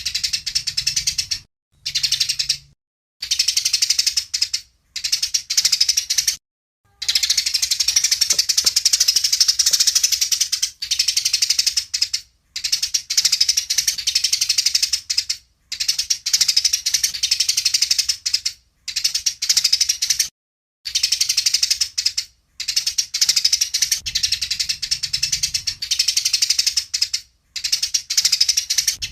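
Eurasian tree sparrows chirping in a rapid, agitated fighting chatter, in bursts of one to four seconds broken by short silences.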